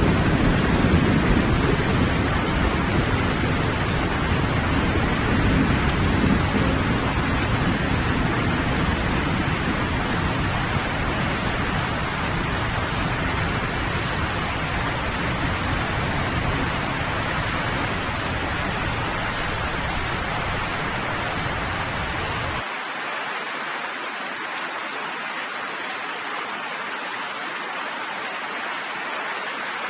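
Steady rain with a low rolling rumble of thunder that fades gradually. About three-quarters of the way through, the rumble cuts off abruptly, leaving only the hiss of rain.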